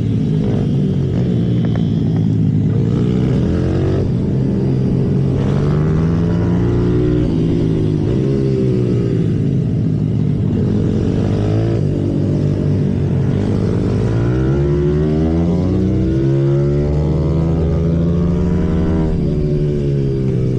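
Symoto 140cc pit bike's single-cylinder four-stroke engine, heard onboard at speed on a track. The pitch climbs under throttle and drops back repeatedly with gear changes and corners: about a second and a half in, around seven seconds, from about thirteen to sixteen seconds, and again near the end.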